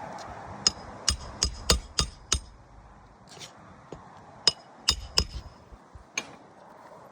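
A hammer driving roofing nails into asphalt shingles: a quick run of about six sharp strikes, then a second run of four or five, each with a short metallic ring.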